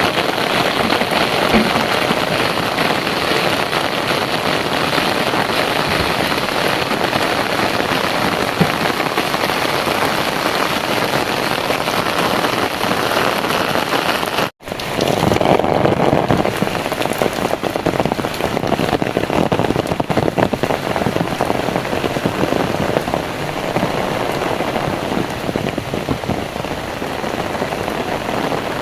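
Heavy rain pouring down steadily, a dense even hiss of drops. It cuts out for an instant about halfway through, then carries on.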